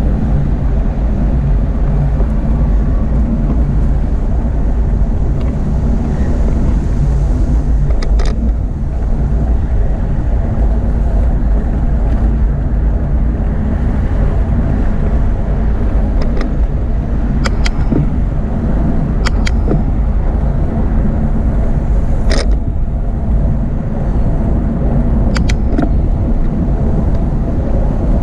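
Steady, loud low rumble of motorway traffic and wind heard from a moving bicycle, with a few sharp clicks and rattles from the bike.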